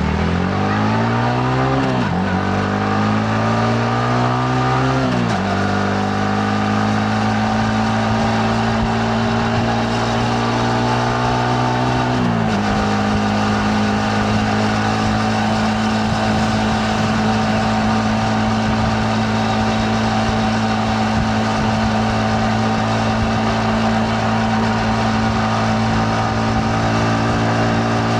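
Yamaha MT-15's 155 cc single-cylinder engine accelerating through the gears. Its pitch climbs and drops sharply at three upshifts, about two, five and twelve seconds in, then holds steady at a cruise.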